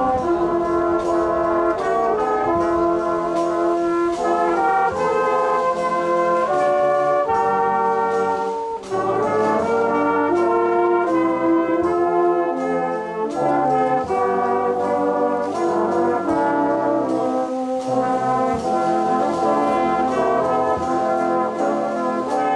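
Brass music: several brass instruments playing a tune together in harmony, held notes changing from chord to chord.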